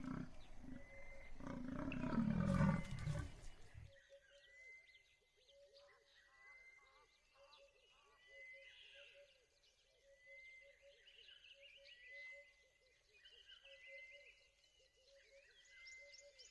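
A lion roaring for the first four seconds, loudest near the end of the roar. After it comes faint chirping, with a short high call repeating about once a second.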